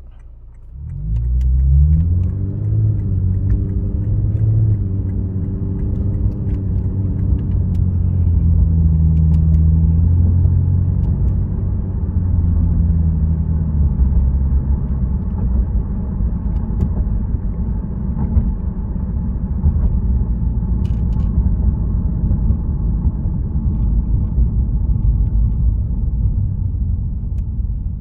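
Lexus RC350 F Sport's 3.5-litre V6 heard from inside the closed cabin through a Remark axle-back muffler, in eco mode. The engine note climbs as the car pulls away about a second in, then settles into a steady low drone while cruising.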